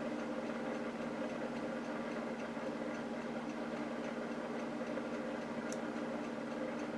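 A small countertop toaster oven running with a steady electrical hum, its timer giving a faint, regular light ticking.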